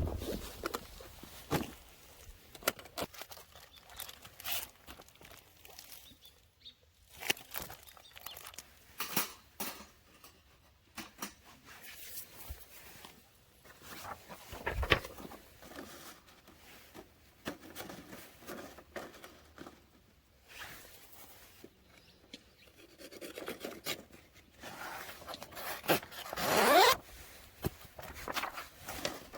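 Scattered clicks, rustles and scrapes of gear being handled, with a zipper pulled in one quick rising stroke near the end, the loudest sound.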